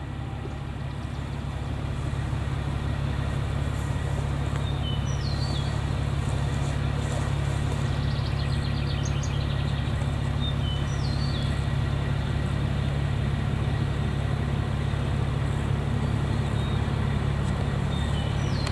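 A vehicle engine idling steadily with a low hum. A bird gives a short falling chirp three times.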